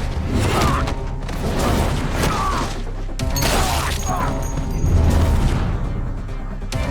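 Dramatic action music mixed with crashes, booms and impacts.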